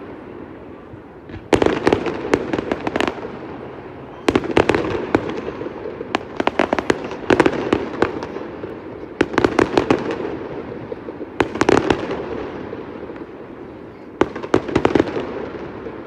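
Fireworks exploding: six clusters of rapid sharp cracks, about one every two to three seconds, each dying away in a rolling echo.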